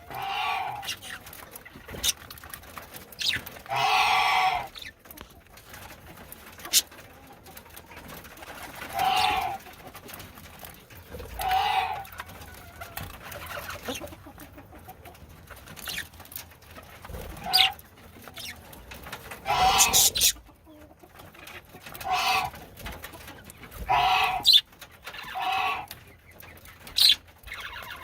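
Chickens clucking in repeated drawn-out calls every few seconds, with a few sharp clicks in between.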